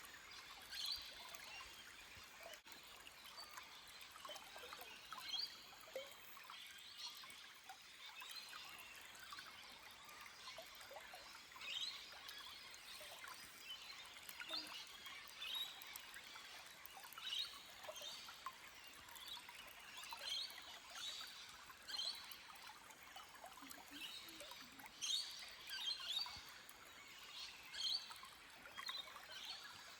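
Small forest stream trickling and babbling over rocks, a steady wash with many quick, irregular plinks and splashes.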